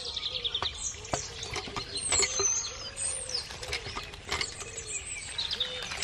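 Birds chirping and calling: many short high chirps and glides over a lower call that repeats every half second or so, with a few sharp taps or clicks.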